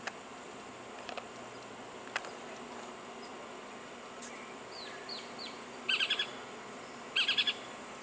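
Small bird calling over a steady faint hiss: a few short descending chirps, then two quick chattering bursts of high notes about a second apart.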